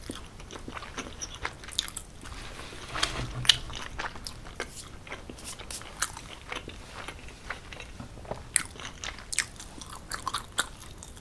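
Close-miked biting and chewing of a slice of cheese pizza: many small sharp mouth clicks and crunches, with the loudest one about three and a half seconds in.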